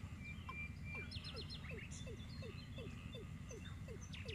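Rural birdsong: short high chirps in small groups over a series of short, low, falling calls repeating about two to three times a second.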